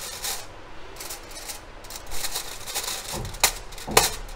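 Fork tines punching holes in aluminium foil stretched over a bowl: the foil crinkles and rustles, with two sharp pokes near the end.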